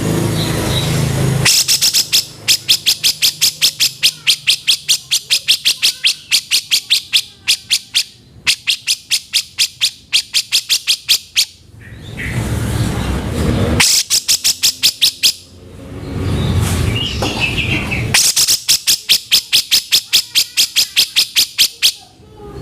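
Grey-cheeked bulbul (cucak jenggot) giving long runs of rapid, harsh chattering notes, about five a second. There are four bursts, and in the short gaps between them a low rumbling background noise comes up.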